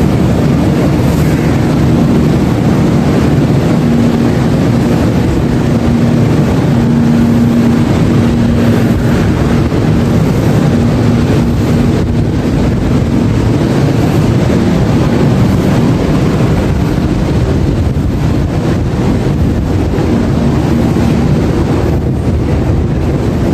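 Steady, loud drone of a train locomotive's engine running while the train stands at the platform, with a low hum that fades in and out.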